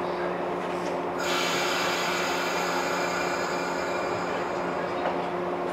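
Electric trains standing at a station platform, their onboard equipment giving a steady hum. About a second in, a hissing, whining machinery layer joins and keeps running.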